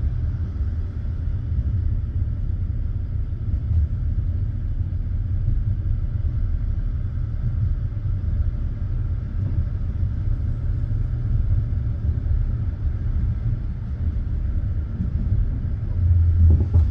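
Passenger train rumbling steadily along the track, heard from inside the carriage, with its low-pitched running noise from wheels and rails. About sixteen seconds in, the rumble swells louder for a moment.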